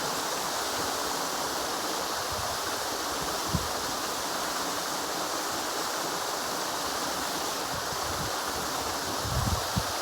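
River water flowing in a steady rush. There is a single low thump about three and a half seconds in, and low rumbling bumps near the end.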